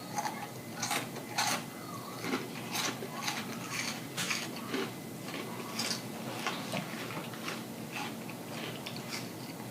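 Close-up crunchy chewing, a person eating with their mouth open, with sharp crackles about twice a second.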